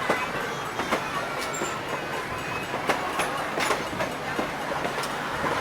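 Train rolling along the track: a steady rumble with irregular clicks of the wheels crossing rail joints.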